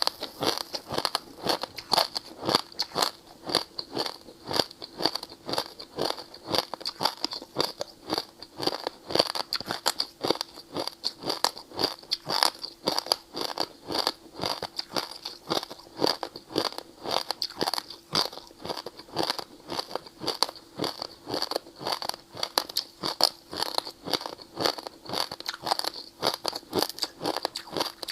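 Ice being bitten and chewed close to the microphone: a continuous run of crisp crunches, several a second, with no pauses.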